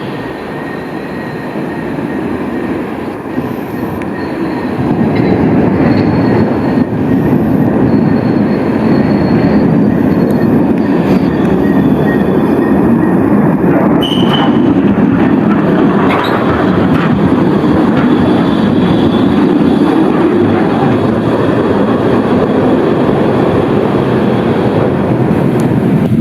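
A tram rolling along the track close by. Its running noise swells about five seconds in and then holds steady, with a brief high wheel squeal about halfway through.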